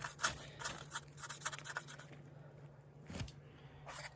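Scattered light clicks and scrapes of hand and tool work at a truck battery, over a faint steady low hum.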